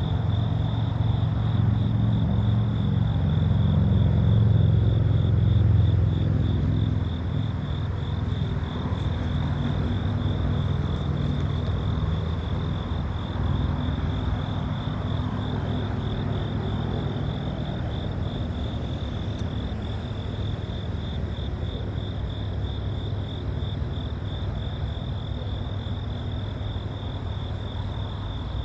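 Diesel locomotive engines idling with a low, steady rumble that is loudest in the first several seconds and then eases slightly. A steady, high, pulsing chorus of insects runs over it.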